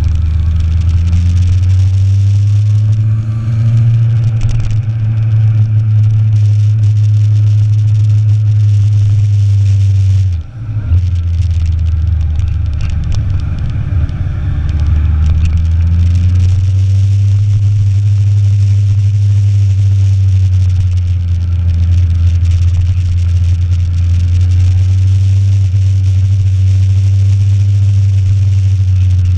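Motorcycle engine running under way, with a steady low rumble of wind and engine and its pitch drifting up and down. About ten seconds in there is a brief sharp drop in the sound before it picks up again.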